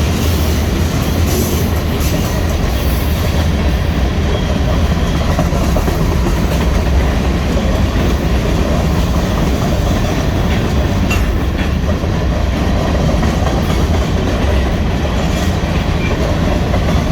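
Union Pacific mixed freight train rolling past close by, a loud, steady rumble of wheels on the rails.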